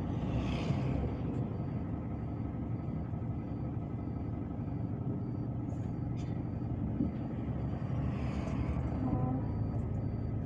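Inside a MAZ-257 coach on the move: the steady low rumble of its diesel engine and the road, with two short hisses, about half a second in and again near the end.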